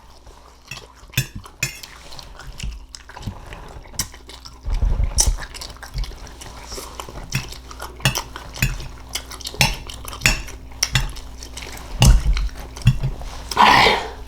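Cutlery clinking and knocking against a dish while green beans are eaten, in irregular scattered clicks with a few heavier knocks.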